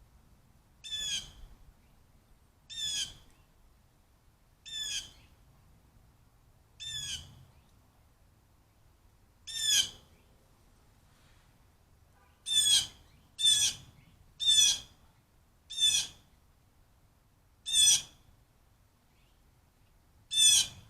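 A bird calling repeatedly: about eleven short calls, spaced about two seconds apart at first, then coming quicker and louder in the second half.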